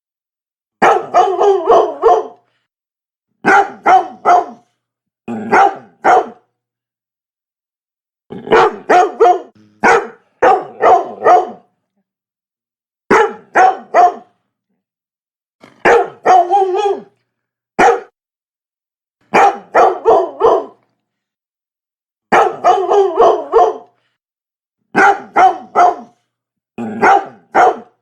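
Labrador dog barking in quick runs of three or four barks, with a pause of a second or two between runs.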